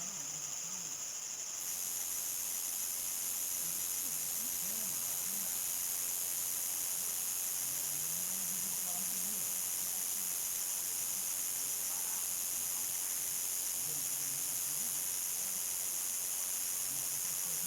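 Crickets trilling steadily at nightfall in a continuous high-pitched chorus. About a second and a half in, a higher band of the chorus grows louder and then holds.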